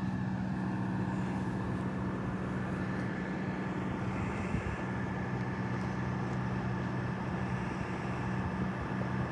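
Steady low hum of an idling engine, holding an even pitch.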